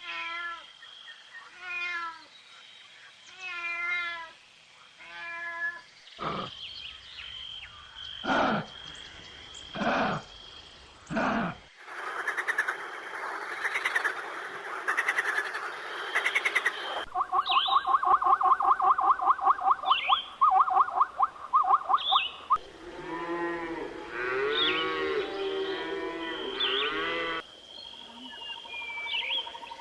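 A string of different animal calls, one kind after another, changing every few seconds: short repeated calls, then four long calls, then a rapid rhythmic run of pulses, then arching calls.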